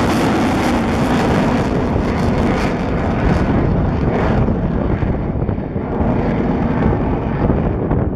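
Boeing F/A-18F Super Hornet's twin General Electric F414 jet engines rumbling loudly overhead during a display pass. The hiss dies away from about four seconds in, leaving a duller low rumble as the jet moves off.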